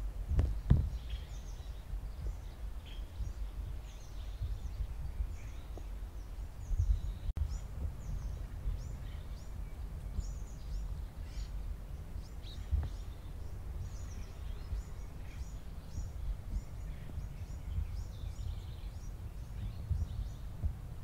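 Many short, faint, high bird chirps scattered over a steady low rumble, with a couple of sharp knocks just after the start.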